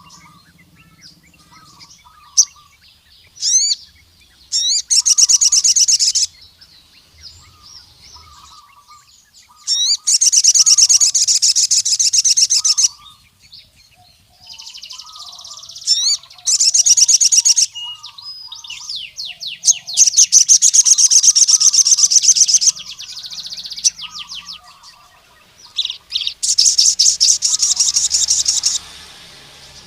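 Male crimson sunbird (sogon) in full song: five loud, rapid, high trills of about two seconds each, with short sharp rising notes between them. Fainter, lower chirps sound throughout.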